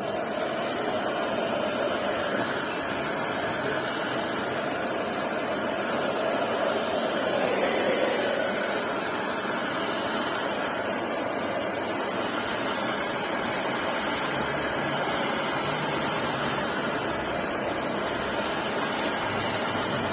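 Steady whooshing machine noise, even and unbroken, with no clear rhythm.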